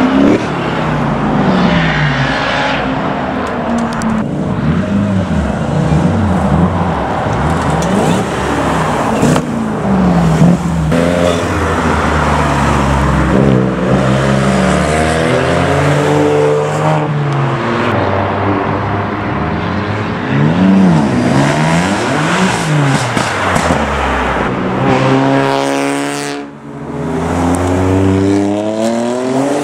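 Performance car engines revving hard and accelerating past one after another, their pitch climbing and falling repeatedly. Near the end the noise briefly drops away before another car revs up with a rising pitch.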